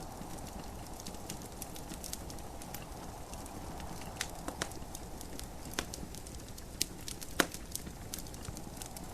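Wood fire crackling in a fireplace: irregular sharp pops and snaps, the loudest about seven seconds in, over a steady hiss of gentle rain.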